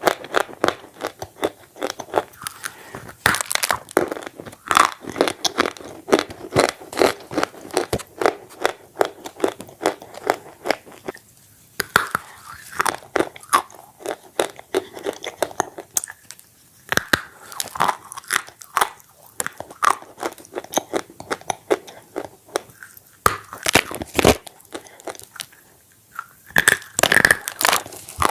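Close-up crunching and chewing of bread dipped in red clay paste: many crisp, crackly bites and chews in quick succession, with a couple of brief pauses.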